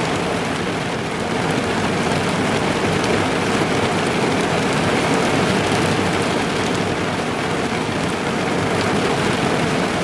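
Steady rain drumming on a car's roof and windscreen, heard from inside the car: a dense, even patter of many drops.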